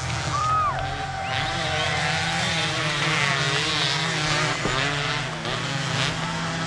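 Several motocross dirt bikes racing, their engines revving up and down over one another in overlapping rising and falling whines.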